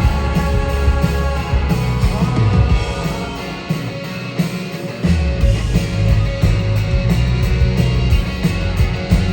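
Live rock band playing an instrumental passage with no vocals. The bass and drums drop out for a moment about three and a half seconds in, then the full band crashes back in at about five seconds.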